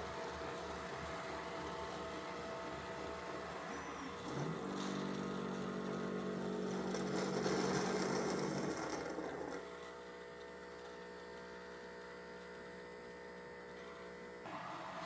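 Mova Z60 robot-vacuum base station washing its mop roller: its motors and pump run with a steady hum. About four seconds in a motor spins up to a louder whine, which peaks around eight seconds and drops back to a quieter steady whine near ten seconds. The sound shifts again near the end.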